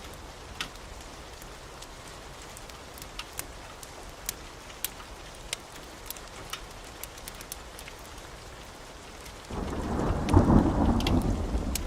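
Steady heavy rain hissing, with scattered sharp ticks. Near the end a clap of thunder breaks in suddenly and rumbles on loudly.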